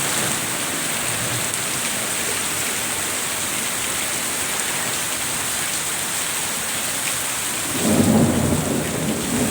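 Heavy rain pouring steadily. Near the end, a louder low rumble rises over it.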